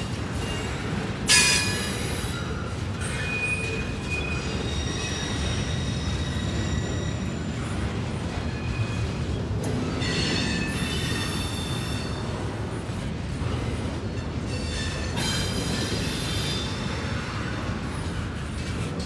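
Double-stack intermodal well cars rolling slowly past, a steady low rumble of steel wheels on rail. High-pitched metallic squeals come and go over it, the loudest and sharpest about a second in, with further spells in the middle and near the end.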